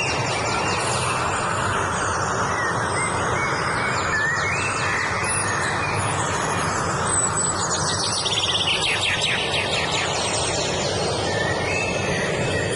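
Several birds singing and chirping, with short rising notes and a rapid trill about eight seconds in, over a steady rushing background noise.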